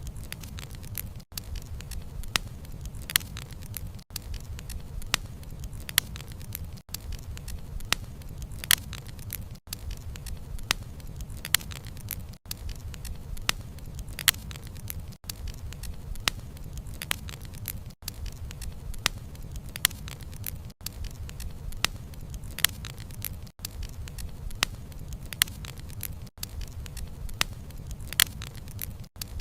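Wood fire crackling, with sharp irregular pops of burning logs over a steady low rumble of the flames. A brief dip in the sound recurs about every three seconds.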